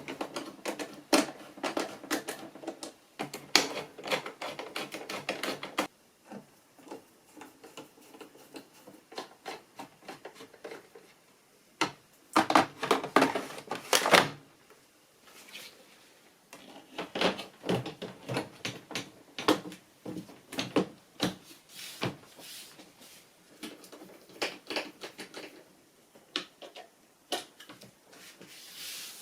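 Clicking, knocking and rattling of plastic and metal parts as a washing machine's panels and fittings are put back together, in irregular bursts with quieter gaps.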